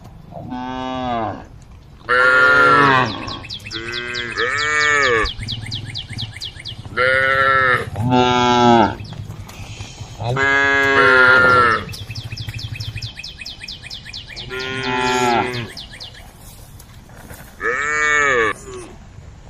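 A cow mooing repeatedly: about nine loud calls, each rising and then falling in pitch, with short pauses between them.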